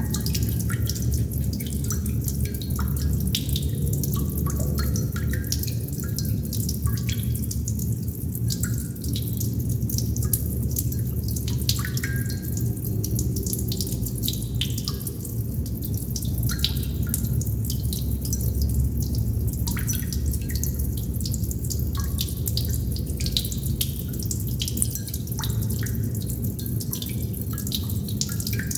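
Water droplets falling irregularly, each drop a short plink, many of them ringing briefly at a pitch, over a steady low rushing noise.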